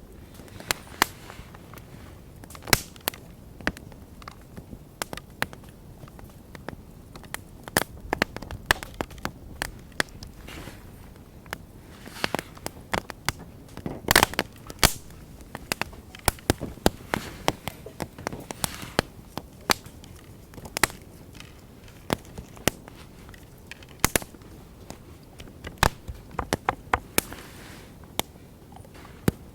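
Wood campfire crackling, with irregular sharp pops of burning wood over a low steady hiss; the loudest pop comes about halfway through.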